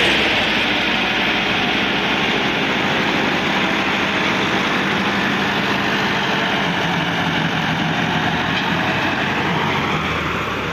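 Massey Ferguson 375 tractor's diesel engine running steadily while pulling a trolley loaded with sugar cane.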